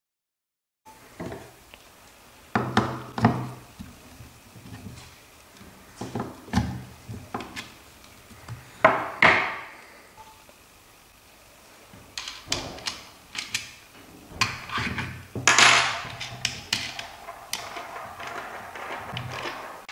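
Handling noise from hard parts of a composite ram pump being worked on by hand: a string of thunks and knocks, with two louder scraping slides, one about nine seconds in and one near fifteen seconds.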